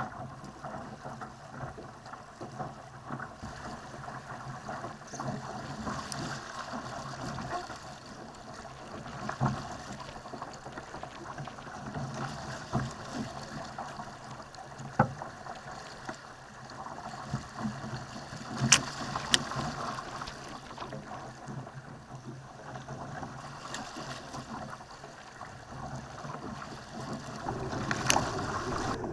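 Laser dinghy sailing fast: water rushing and splashing along the hull, with wind noise and a few sharp knocks and slaps, the loudest a pair a little past halfway.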